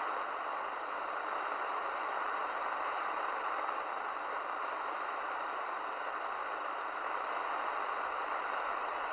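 Steady static hiss from a Midland Alan 8001 CB radio's speaker on an open channel with no station transmitting, the hiss thin and band-limited.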